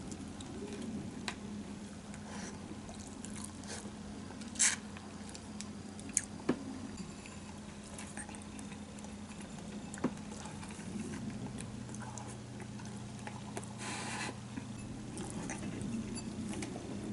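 A person chewing a mouthful of simmered fish: soft, wet chewing and mouth sounds with a few short clicks, over a steady low hum.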